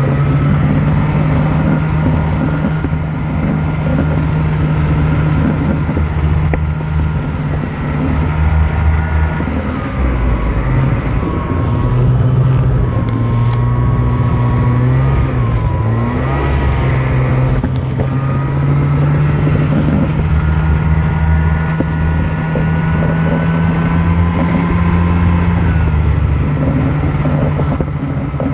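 A vehicle engine running steadily under way, heard from on board, with its pitch dipping and rising between about ten and seventeen seconds in as the speed changes.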